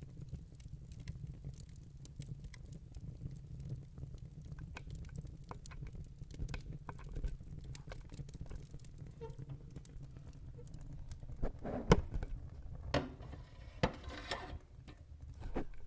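Wood fire burning in a fireplace: a steady low rumble of flames with scattered small crackles. A cluster of louder cracks and pops comes near the end.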